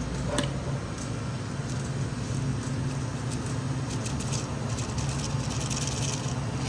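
A steady low hum, with clicks and a stretch of crinkly plastic rustling as a marshmallow bag is handled and shaken.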